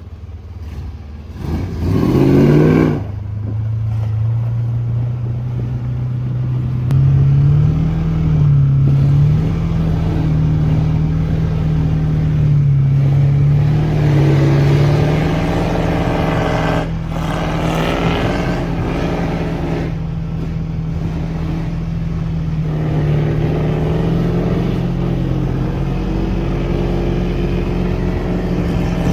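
1982 Ford Bronco's engine revving hard about two seconds in, then running under load with its pitch stepping up and down as the truck drives through deep snow.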